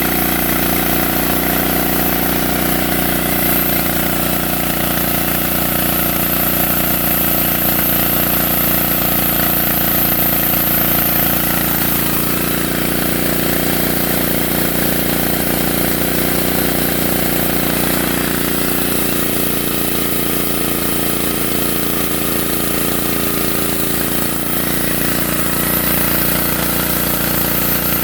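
Sawmill's engine running steadily, its tone shifting slightly about 12 and 24 seconds in.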